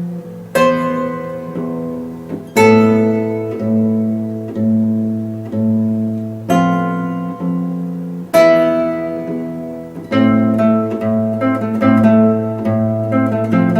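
Background music on a plucked acoustic guitar: strummed chords that ring and die away every second or two, turning to quicker picked notes about ten seconds in.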